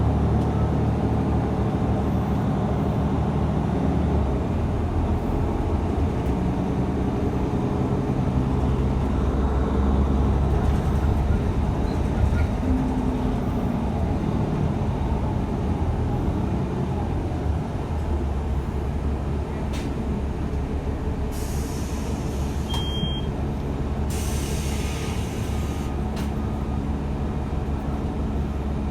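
Ride noise inside a city bus: a steady engine drone that shifts in pitch as it drives, with two short air hisses about two-thirds of the way through.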